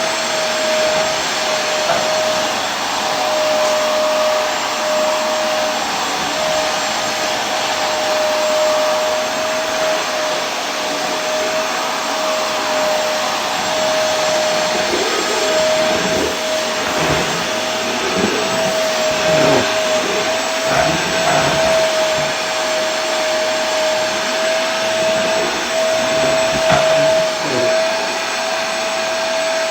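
Vacuum cleaner running continuously: a steady rush of air under a constant motor whine, with a few small irregular wobbles in the low end in the second half.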